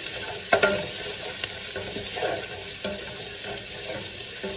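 Sliced onions and green peppers sizzling in a skillet as they are stirred, with a few sharp knocks against the pan, the loudest about half a second in.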